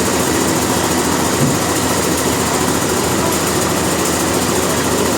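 Sawmill machinery running steadily: a constant engine-driven mechanical noise with no change in pace.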